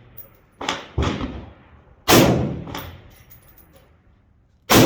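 5.56 AR-15 rifle (an M4 clone) firing four shots at uneven intervals, two close together about a second in and two louder ones a few seconds apart, each ringing out in a long echo.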